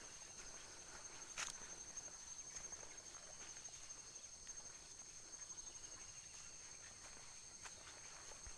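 Faint, steady high-pitched chirring of insects such as crickets, with a few short clicks, the sharpest about a second and a half in.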